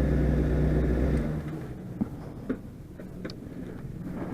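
Motorcycle engine idling steadily, then cut off about a second in, followed by a few light clicks.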